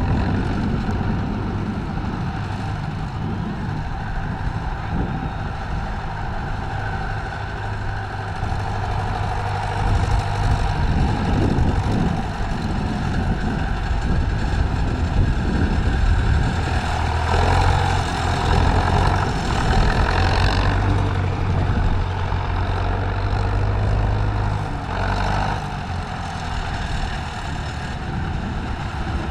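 Tractor engine running steadily with a low hum, getting louder for a few seconds near the middle.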